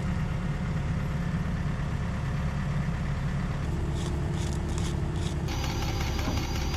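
Excavator's diesel engine idling steadily with an even low rumble.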